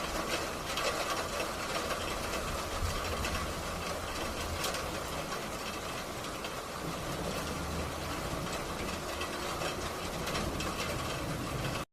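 Rain falling with light hail: a steady hiss with scattered small ticks.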